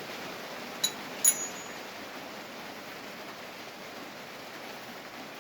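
Two sharp metallic clinks about half a second apart, about a second in, the second louder with a short high ring, typical of a steel spanner knocking against the injector pipe fittings. A steady hiss underneath.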